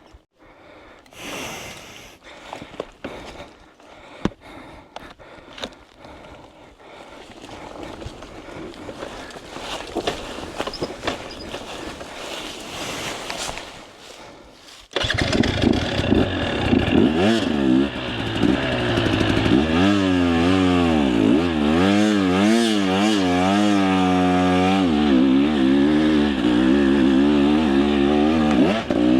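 Two-stroke enduro dirt bike engine revving hard on a steep climb, its pitch rising and falling again and again as the throttle is worked. It comes in loud and abruptly about halfway through. Before that there are only quieter knocks and scuffs, with a fainter engine note building.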